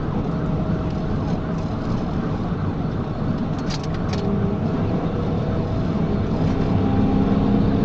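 Engine and road noise inside a police car driving at pursuit speed, around 90 mph on the highway: a steady, dense rumble that grows a little louder near the end, with two short clicks about four seconds in.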